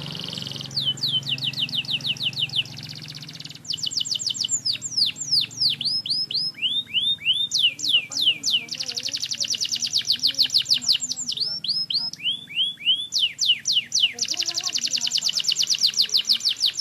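Domestic canary singing: long, fast trills of quickly falling notes, about ten a second, broken now and then by a few slower, lower swooping notes.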